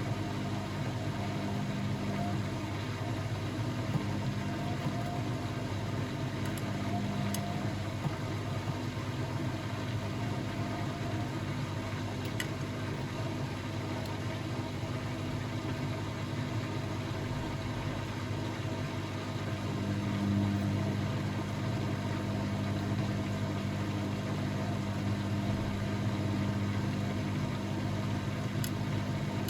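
Blomberg WAF 7442 SL washing machine running mid-cycle: a steady motor hum with no pauses, swelling slightly about two-thirds of the way through, with a few faint ticks.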